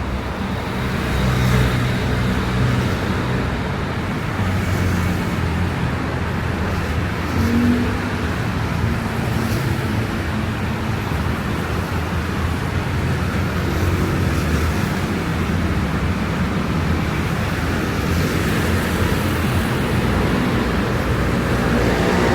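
Street traffic on wet pavement: car engines humming low and tyre noise from the wet road, with several vehicles passing.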